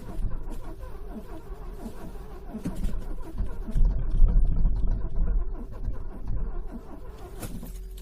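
Car engine being cranked over by its starter in freezing cold, a cold engine struggling to start; the low rumble swells for a second or two about halfway through.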